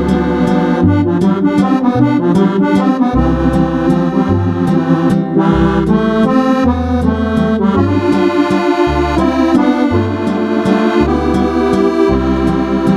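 Roland FR-8X digital accordion playing a tune on a Cordovox-style electronic accordion voice: a bright, reedy melody over a steady left-hand bass that changes note about every half second to a second.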